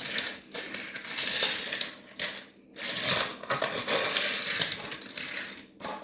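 Die-cast toy trains rattling and clattering along a toy track in uneven bursts, with brief pauses about two and two and a half seconds in. The sound stops at the very end.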